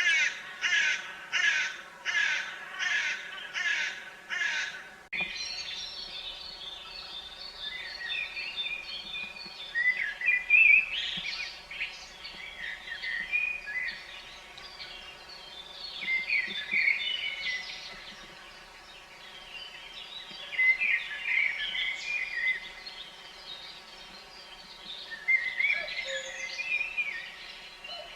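A crow caws about seven times in a harsh, evenly spaced series. About five seconds in, the sound changes abruptly to songbirds chirping and singing over a faint low hum.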